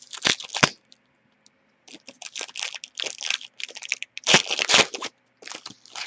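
Foil trading-card pack wrapper being torn open and crinkled by hand, in several crackling bursts with the loudest a little past the middle.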